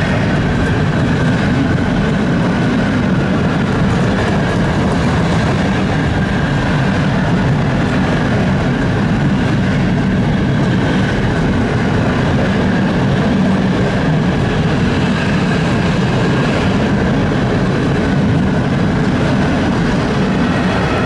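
Train running along the tracks through a station: a steady, loud rumble of wheels on rail with a faint high whine, unbroken throughout.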